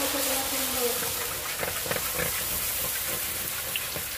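Food frying in hot oil: a steady sizzle, with a few light clicks about two seconds in.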